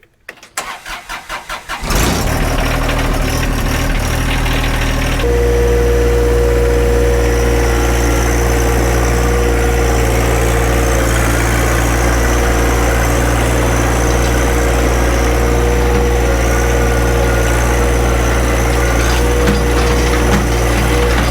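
Tractor engine cranked over for about two seconds, then catching and starting. It runs steadily and about five seconds in steps up to a higher, steady running speed.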